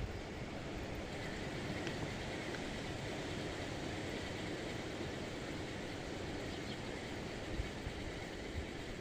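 Wind over open lake water, a steady rushing noise, with a few low buffets of wind on the microphone near the end.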